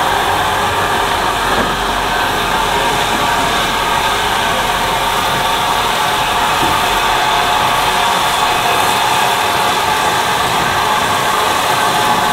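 Steady, loud hiss of escaping steam from a steam locomotive, running evenly without a break.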